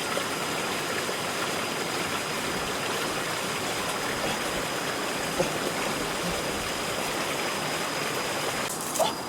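A steady rush of water with a thin, steady high tone running above it. Near the end the rush drops away and a few short, sharp high chirps come in.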